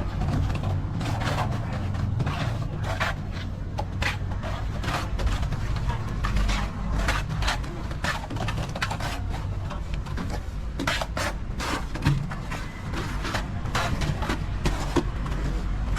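Irregular scrapes and knocks of hand tools at work, typical of plastering with a trowel on a wall, over a steady low rumble.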